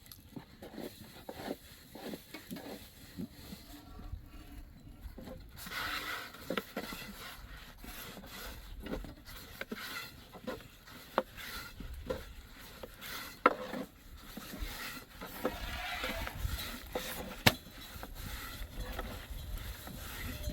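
Irregular knocks, clicks and scraping of things being handled, with two sharp, louder knocks in the second half.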